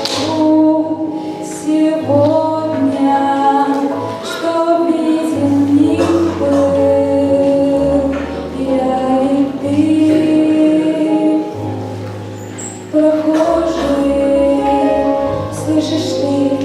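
A woman singing a song over a musical accompaniment with a steady bass line.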